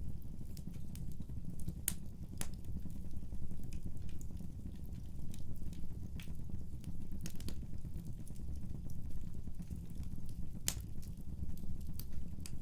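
Wood fire burning with a steady low rumble and scattered sharp crackles and pops, a few louder snaps about two seconds in and again near ten and a half seconds.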